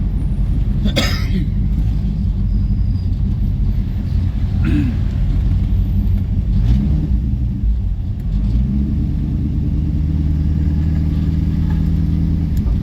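A motor vehicle's engine running steadily at low speed, its note shifting and rising about two-thirds of the way through, with two brief sharper sounds early on.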